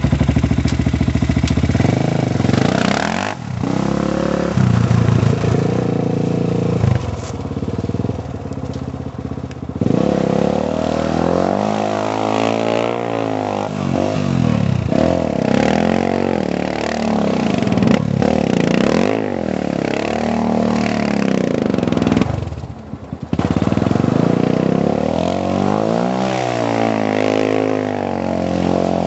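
Honda TRX400EX quad's single-cylinder four-stroke engine revving up and down over and over as it spins donuts on studded tyres on ice. The throttle drops off briefly about two-thirds of the way through.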